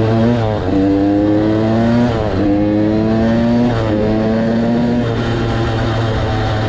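KTM 85 BigWheel's two-stroke single-cylinder engine pulling hard at full throttle, its pitch climbing through each gear and dropping at three quick upshifts about a second and a half apart, then holding steadier near the end.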